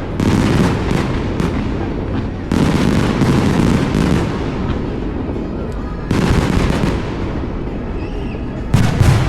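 Aerial fireworks bursting: a run of deep booms, each followed by crackling, with new volleys about two and a half seconds in, around six seconds in, and the loudest boom near the end.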